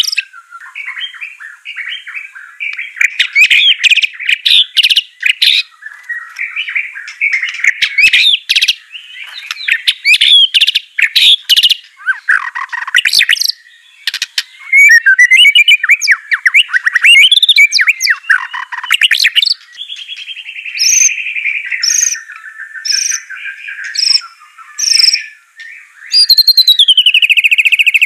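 White-rumped shama (murai batu) in full song: a loud, almost unbroken run of varied rich whistles, quick trills and sharp chips. Near the end a long buzzy note slides downward.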